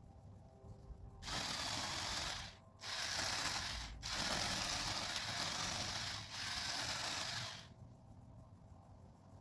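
Electric chain saw cutting through a conifer branch, in three runs with brief pauses, stopping near the end.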